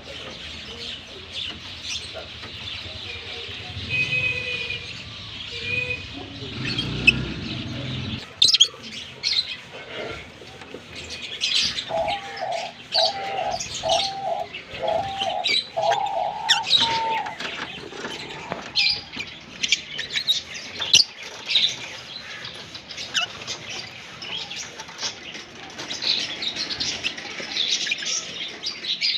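A pair of green Fischer's lovebirds chirping and chattering in rapid, high-pitched chirps. About halfway through, a run of about six lower, evenly spaced notes sounds beneath them.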